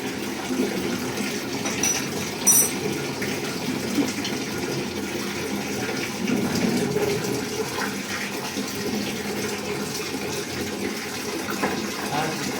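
Water running or pouring steadily, with a short sharp clink about two and a half seconds in.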